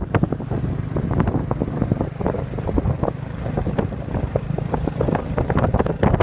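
Wind buffeting the microphone on a moving motorcycle, gusting irregularly over a steady low engine drone.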